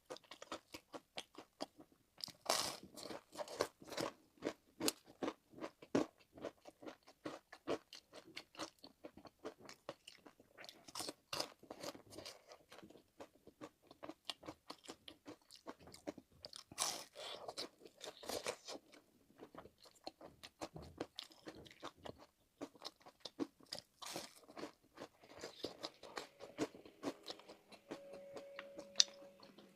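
Close-up crunching bites and chewing of a crisp, homemade deep-fried glutinous rice cake (youzhagao), in irregular crackly bites with louder crunches now and then.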